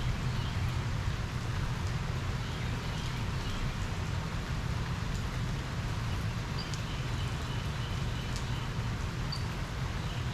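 Steady rain falling during a thunderstorm, with a steady low rumble underneath and scattered faint ticks. A few faint, short, high chirps repeat in the second half.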